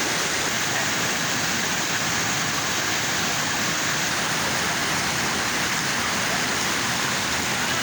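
Steady rush of river water running over rocks, an even hiss that does not change.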